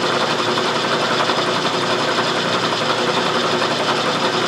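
Milling machine running steadily with a fine, fast chatter, its cutter taking a light pass to break the burr off the edge of a steel bar.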